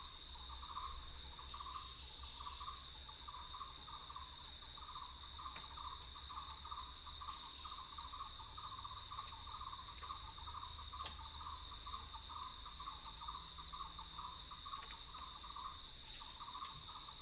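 Insects chirring: a steady high-pitched drone, with a lower, rapidly pulsing trill repeating in short phrases about once a second.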